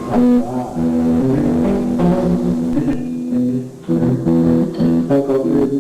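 Live band jamming instrumentally, led by guitar and bass guitar playing held and repeated notes, with a brief dip in loudness a little before four seconds in.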